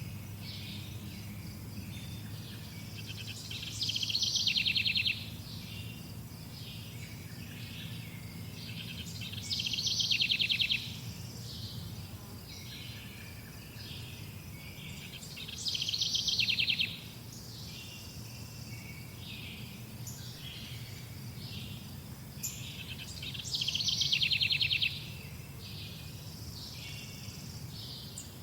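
Birds chirping, with one bird singing a loud, rapid trill of about a second that repeats about every six seconds, four times. A steady low rumble runs underneath.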